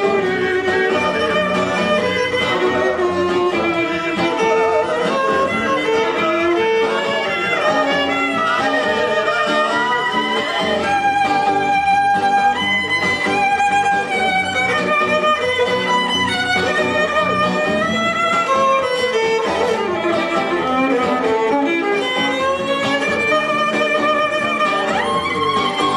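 Violin playing a flowing melody over guitar accompaniment: an instrumental break in a folk song, with no singing.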